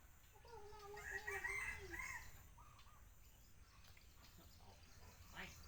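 A long, pitched animal call held for about two seconds, starting about half a second in and dropping in pitch at the end.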